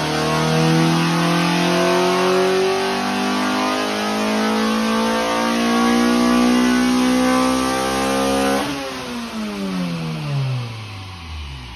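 Honda B20 VTEC four-cylinder engine under full load on a chassis dyno, its revs climbing steadily through a pull for about eight and a half seconds. Then the throttle closes and the revs fall away steadily as the car coasts down on the rollers. This is the final tuning pull, with the tune maxed out.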